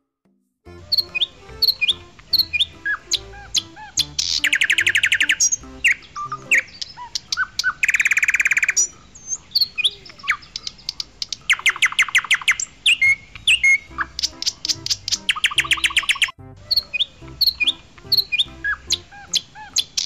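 Birds chirping and tweeting, with loud trills about a second long every few seconds, over soft background music.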